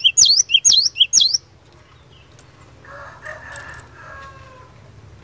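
Cinereous tit (glatik batu) singing: a series of loud, sharp two-part notes, about two a second, stopping about a second and a half in. A fainter, lower sound follows about three seconds in.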